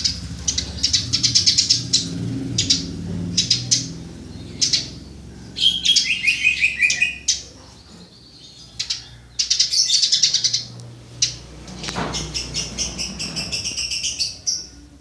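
Eurasian tree sparrow (burung gereja) chirping: bursts of rapid, high chirps repeated throughout, with a falling run of notes about six seconds in.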